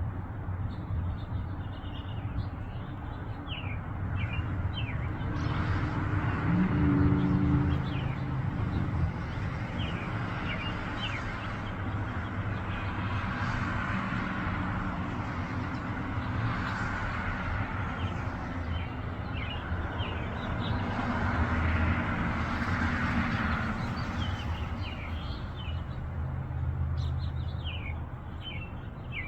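Small birds chirping in short, quick notes, mostly near the start and near the end, over passing road traffic that swells and fades several times with a steady low rumble underneath.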